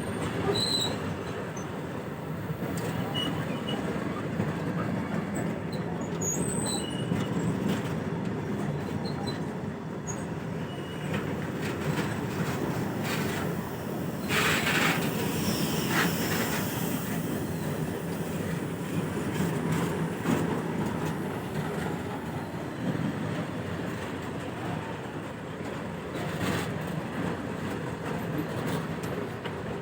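Goods train rolling past on the rails: a steady rumble of wagon wheels, with short high wheel squeals in the first several seconds and a brief louder screech about halfway through.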